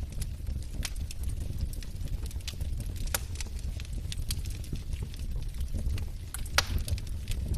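Wood fire burning in a fireplace: a steady low rumble of flames with irregular sharp crackles and pops from the logs, one louder pop near the end.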